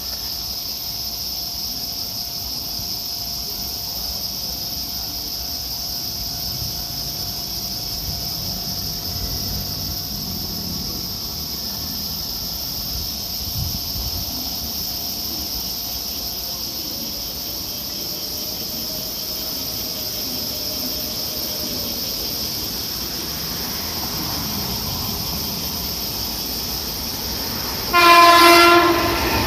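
Steady background noise on a railway platform, then near the end a train's horn sounds once: a loud, single-pitched blast of about a second, after which the train's noise swells.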